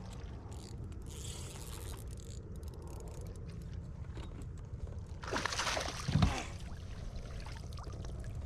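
Water trickling and sloshing around a kayak hull over a steady low rumble, with a louder splashing scrape about five seconds in that ends in a thump.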